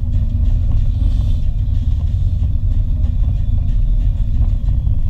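Vehicle driving along a road: a steady low rumble of engine and road noise.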